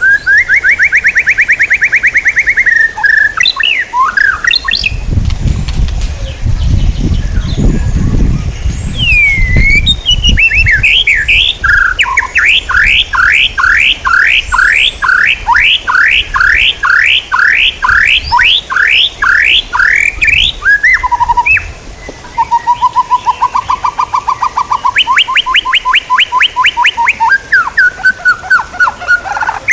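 Songbird singing loud, varied phrases: a fast trill, then a long series of quick repeated sweeps about two or three a second, then lower and higher trills. A low rumble sits under the song from about five to ten seconds in.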